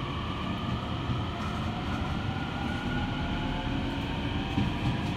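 Electric commuter train pulling away from a station, heard from inside the carriage: steady running rumble with a whine that slowly rises in pitch as the train gathers speed.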